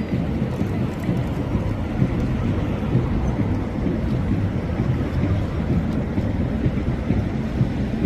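Steady low rumble of a boat engine under way, with wind buffeting the microphone.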